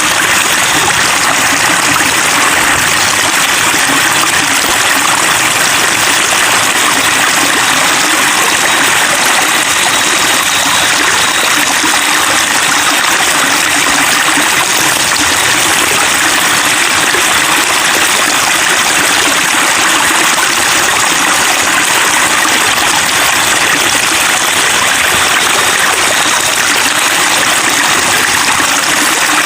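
Running water babbling and trickling, a steady, continuous splashing rush with no breaks.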